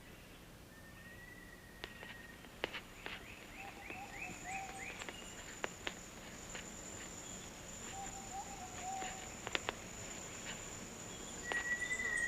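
Tropical rainforest ambience: a steady high-pitched insect drone, with rapid chirping trills, an occasional held whistle and lower wavering calls from other animals, and a few scattered sharp clicks.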